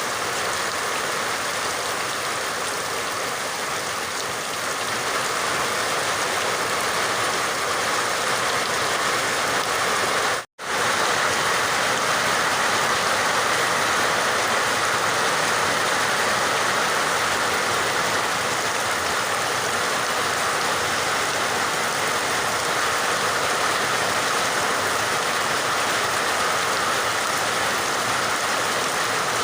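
Steady rain falling, an even hiss with no distinct drops standing out. It cuts out completely for a split second about ten seconds in, then carries on as before.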